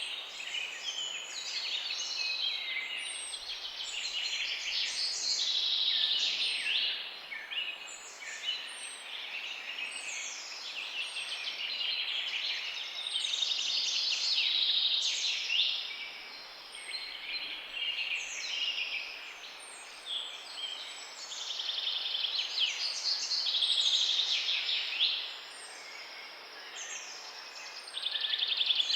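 A chorus of many small songbirds chirping and trilling at once, with calls overlapping continuously, over a faint steady background hiss.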